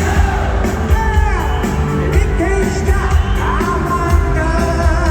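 Live rock band playing with singing: steady bass and drums, with gliding melodic lines over them.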